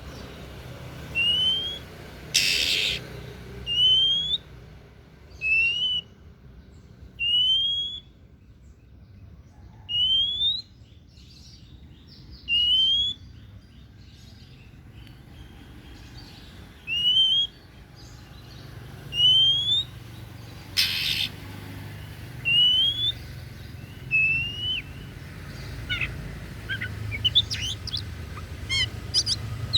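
Oriental magpie-robin (kacer daput, the white-breasted form) singing: clear rising whistles repeated every second or two, twice broken by a short harsh burst, then a fast run of varied chirps near the end.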